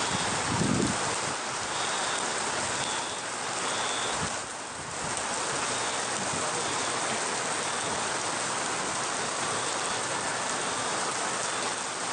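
Steady rushing water noise from a tropical-storm deluge: heavy rain and running floodwater, dipping briefly about four and a half seconds in.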